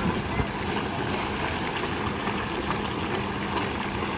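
Mountain stream rushing past, a steady wash of water noise.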